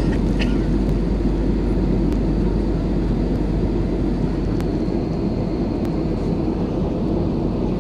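Airbus A320-200 cabin noise in flight: a steady, unbroken low drone of engines and airflow heard from inside the cabin.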